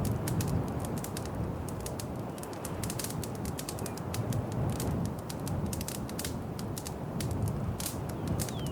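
Wood fire in a fireplace crackling, with many quick irregular pops and snaps over the low steady rush of the flames.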